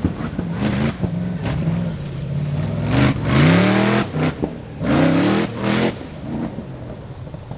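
Rock bouncer race buggy's high-horsepower engine running with an uneven rumble, then revving hard twice, about three seconds in and again about five seconds in, before dropping back.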